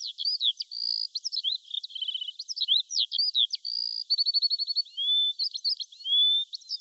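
A songbird singing a fast, varied song of chirps, rapid trills and short rising whistles.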